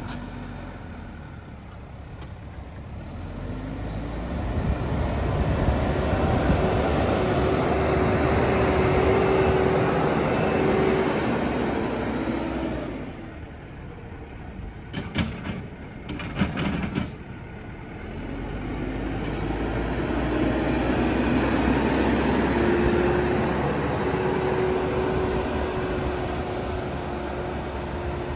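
JCB 215E backhoe's diesel engine running and revving up twice under load, each time with a steady whine over the engine noise. In the lull between, the engine drops back and there are a few sharp metallic knocks.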